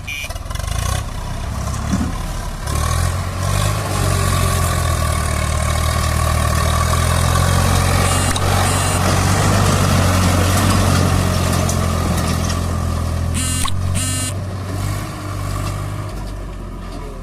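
Swaraj 744 FE tractor's three-cylinder diesel engine working under the load of a fully laden trolley. Its note builds a few seconds in, holds steady and strong, then eases off near the end.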